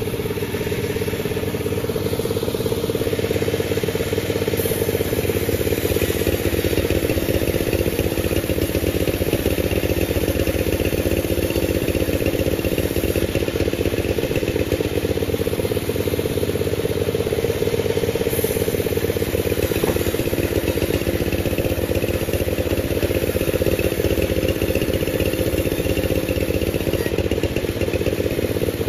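Panda36 sawmill running steadily, a constant machine drone with a strong mid hum that does not change.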